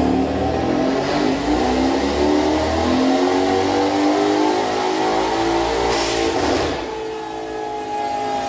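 Twin-turbo V8 of a catless Mercedes-AMG C63 S at full throttle on a chassis dyno, its pitch climbing steadily for about six seconds. At the top, a short burst of hiss as the throttle shuts, then the engine note falls slowly as it winds down.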